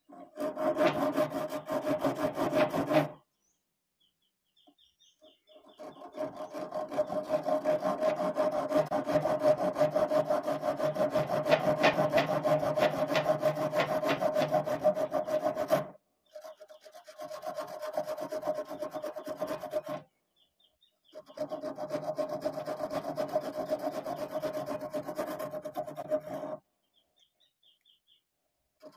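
Homemade wood lathe running while a turning tool scrapes and cuts the spinning wood: a steady hum under rapid rasping. It comes in four stretches broken by abrupt short silences.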